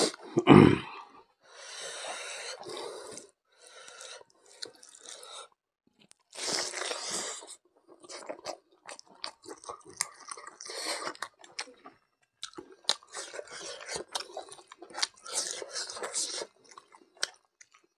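A person chewing a mouthful of rice and mithun intestine, close to the microphone, in irregular bursts with short pauses. A loud thump comes about half a second in.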